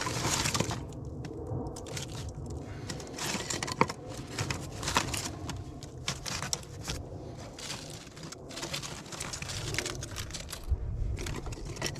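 Dry sticks and twigs being handled and laid into a fire lay: repeated rustling and scraping with scattered light clicks and knocks of wood on wood.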